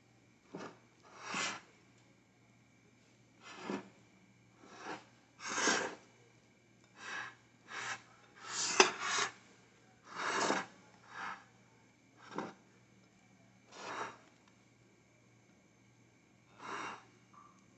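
A utensil scraping against a dish in about a dozen short strokes with pauses between them, as batter is scooped and spread in layers, with one sharp knock about nine seconds in.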